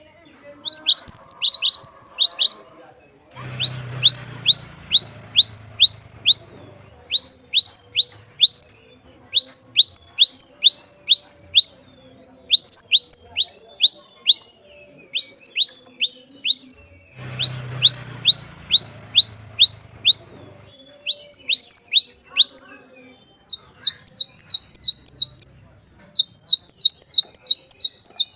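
Cinereous tit (glatik batu) singing: phrase after phrase of six to eight quick, high notes, each sweeping down in pitch, with short pauses between phrases. A faint low rumble sits under the song twice.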